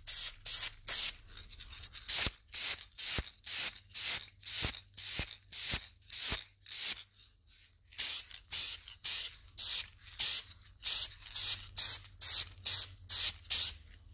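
Short hissing bursts of spray, about two a second, each cut off sharply with a brief gap before the next.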